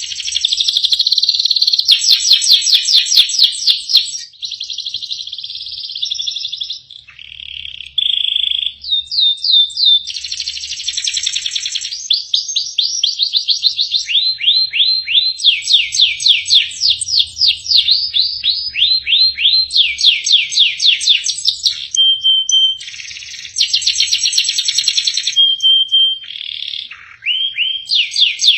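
Domestic canary singing a long continuous song: fast trills of repeated down-sweeping notes, switching to a new trill every second or two, with a few short steady whistled notes near the end.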